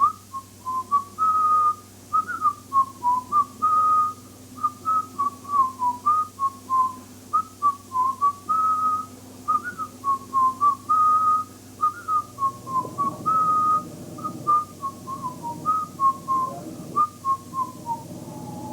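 A whistled tune, a melody of short notes and a few held ones, for the pet bird to dance to; it trails off near the end.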